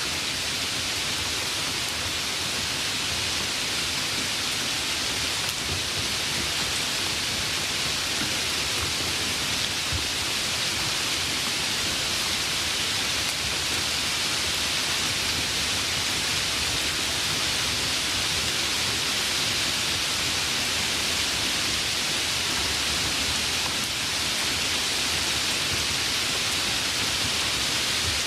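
Steady rainfall: a continuous, even hiss of rain with no breaks or distinct thunderclaps.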